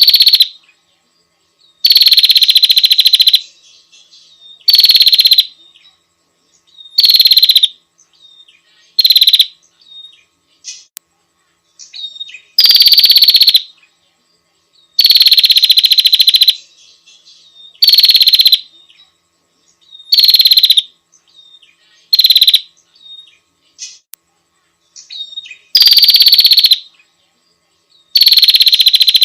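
Female bar-winged prinia (prenjak) giving its high, rapidly trilled call over and over, each call a second or so long with a slight downward slide at its start, separated by short pauses with a few faint softer notes. It is the female's call to the male.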